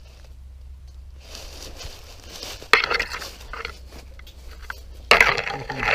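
Dry leaves and brush crunching and rustling close to the microphone as someone moves through them, in two sudden bursts: a short one about three seconds in and a longer one near the end.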